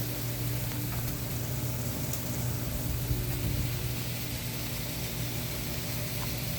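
Air conditioner running: a steady low compressor hum with an even hiss of fan noise over it.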